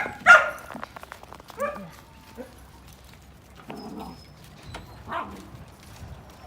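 Labradoodle puppies yipping and whimpering as they play: a loud yelp about a third of a second in, then several shorter yips and whines.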